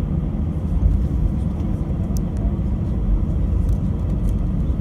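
Steady low rumble inside the cabin of an Airbus A319-100 airliner, from its jet engines and airframe.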